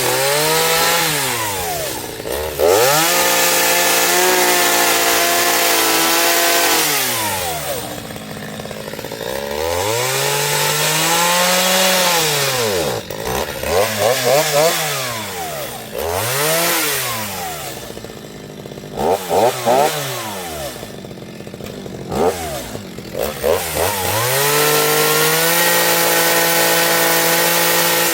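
Chainsaw revving up to a high steady pitch and dropping back toward idle, over and over, as it cuts into wood.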